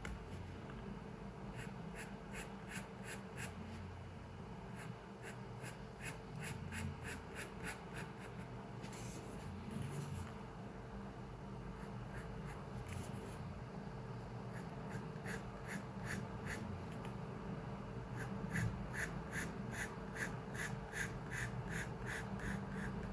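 Pencil drawing on paper in quick, short back-and-forth strokes, about four a second, in two runs with a pause in the middle, over a steady low room hum.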